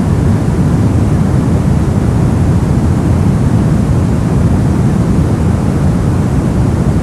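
Brown noise: a steady, deep, even rumble of random noise, strongest in the bass and falling away toward the treble, with no change or events.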